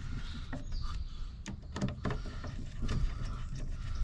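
Scattered small clicks and taps of metal lock parts and a screw being handled during reassembly of a mortise lock, over a low steady hum.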